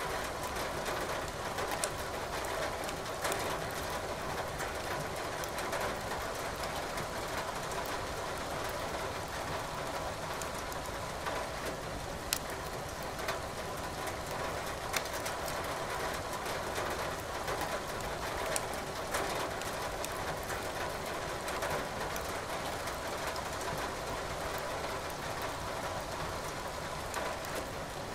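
Steady rain hiss with wood burning in a fireplace, crackling in scattered sharp pops.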